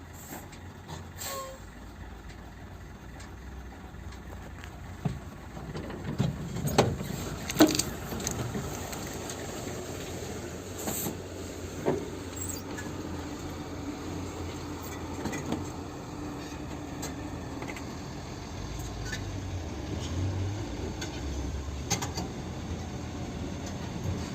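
Loaded dump truck's diesel engine running low and steady as it crawls over a rough road, with scattered sharp knocks and clanks from the truck, the loudest a few seconds in.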